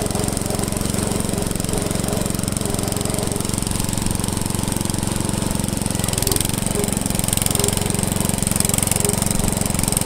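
An engine running steadily at a constant speed, with a rapid, even firing beat.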